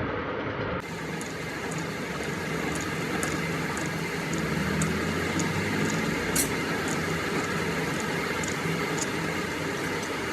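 A workshop machine running steadily, with faint regular ticks about twice a second and a sharper click about six seconds in.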